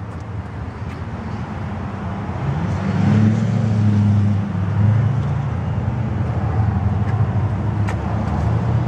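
A motor vehicle's engine running, a low rumble that grows louder over the first three seconds and then holds steady, with a brief rise and fall in pitch about three seconds in. A light click sounds near the end.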